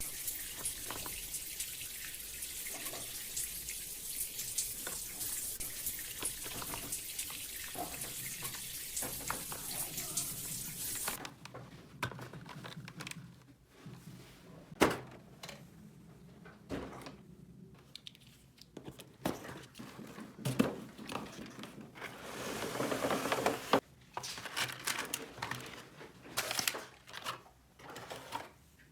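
Water running steadily from a small tap for about eleven seconds, then stopping, followed by scattered clicks and knocks and a second, shorter run of water a little past the middle.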